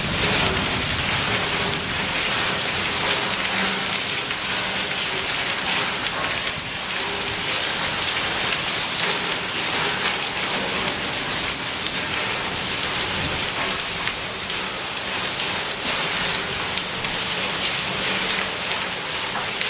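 Hailstorm: hail and heavy rain pelting down on hard surfaces, a steady, dense hiss made of countless small impacts.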